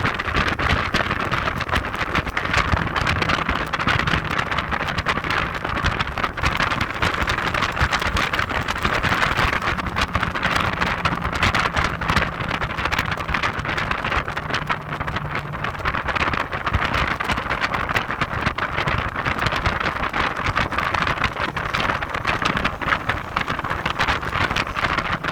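Heavy wind buffeting the microphone on a moving Audi TT 225 Quattro, a constant crackling rush, with the car's 1.8-litre turbocharged four-cylinder engine heard faintly underneath as a low steady hum.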